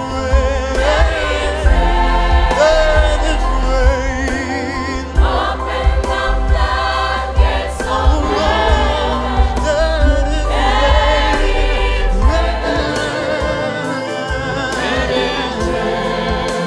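Gospel worship music: a choir and lead voice sing long notes with vibrato over a band with a heavy bass.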